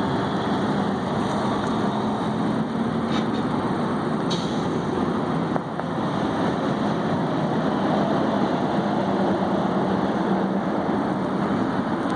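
Steady hum of idling truck engines, running without change in pitch.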